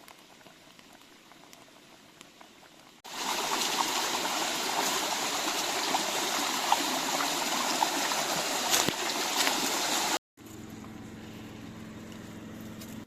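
Flowing stream water rushing steadily. It comes in suddenly about three seconds in and cuts off suddenly about three seconds before the end, with only a faint hiss before and after.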